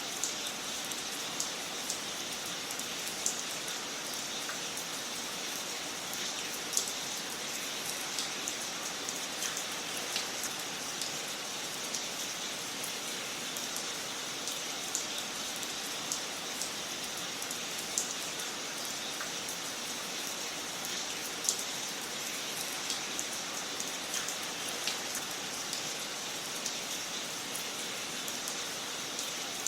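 Wood fire crackling in a fireplace: a steady hiss with small pops and snaps scattered irregularly throughout.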